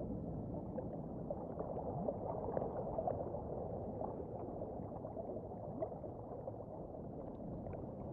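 Underwater ambience: a low, even watery rush with faint gurgling and scattered small clicks and crackles.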